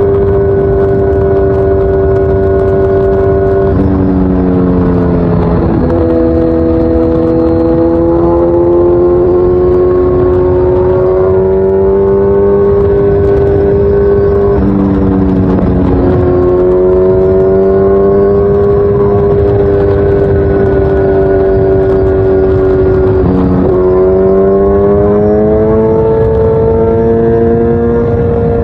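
Kawasaki Z900's inline-four engine running through an Akrapovič full exhaust system while being ridden, a steady exhaust note whose pitch drops and climbs again several times as engine speed changes.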